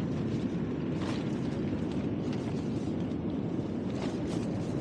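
Strong wind buffeting the microphone in a steady low rumble, with a few faint light ticks.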